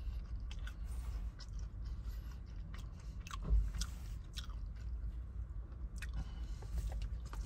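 A person chewing a bite of dried beef stick close to the microphone: irregular small mouth clicks and smacks.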